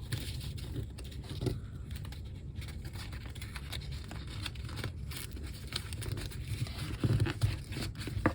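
Paper rustling and scraping as a handmade paper envelope's flaps are folded and handled, with a few soft taps, over a steady low hum.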